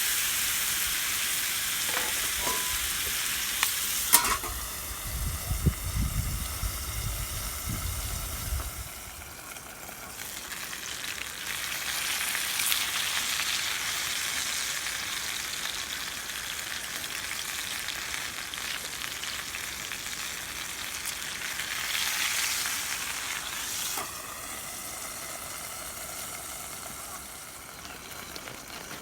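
Food sizzling steadily in a frying pan over a fire, with a few knocks and some low rumbling about four to nine seconds in.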